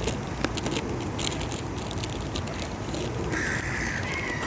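A gull gives one drawn-out cry of about a second near the end, amid a crowd of feeding birds, with scattered sharp taps and clicks in the first second and a half over a steady low rumble.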